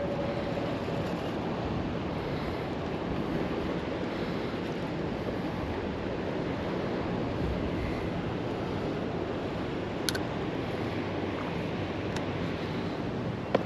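Steady rush of water flowing below a dam, with a faint click about ten seconds in.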